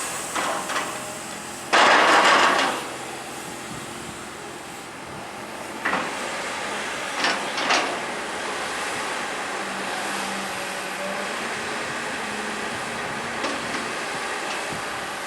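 Excavator at work: steady machine noise with a loud, rough, scraping burst about two seconds in and a few short metallic clanks scattered through the rest.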